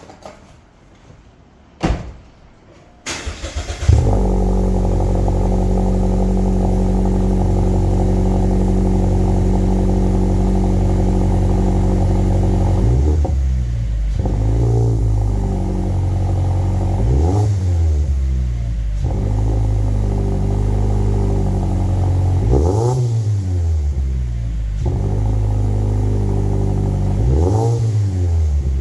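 2018 Mazda3's four-cylinder engine through a cat-back exhaust, started about three seconds in: a brief crank, then a flare and a steady idle. It is then revved four times, each a quick rise and fall in pitch, settling back to idle in between.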